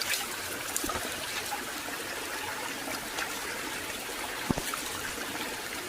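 Water of a small waterfall or stream trickling and splashing steadily, with a few small knocks and one sharp knock about four and a half seconds in.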